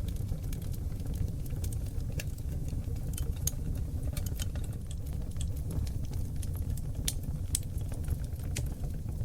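Oak log fire burning in a fireplace: a steady low rumble of flame with many small, sharp crackles and pops at irregular intervals.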